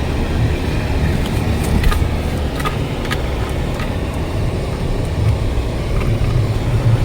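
Car driving: a steady low rumble of engine and road noise, with scattered light clicks throughout.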